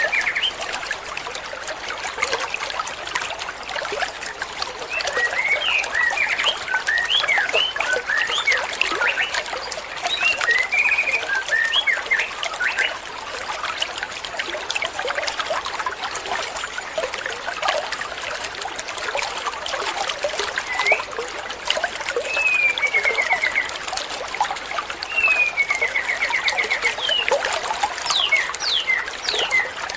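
Yellow-vented bulbul (trucukan) song: bright chirps and several fast rolling trills, coming in bursts, over a steady trickling stream.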